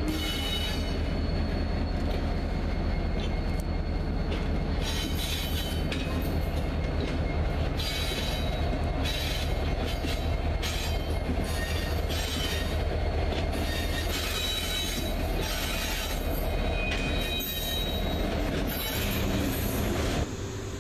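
Loaded freight train rolling past at low speed: a steady low rumble of wheels on rail, with metal wheel squeal in high tones that come and go.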